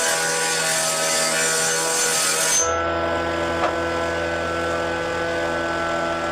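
Power tool working wood: a steady motor hum with a loud cutting or sanding noise that stops suddenly about two and a half seconds in, leaving the machine running on.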